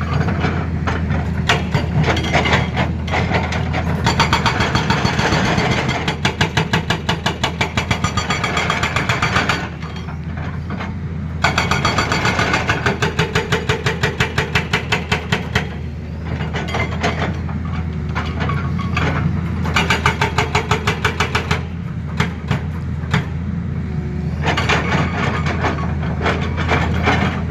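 Excavator-mounted hydraulic breaker hammering in spells of rapid, evenly spaced blows, four times, over the steady running of the excavator's diesel engine.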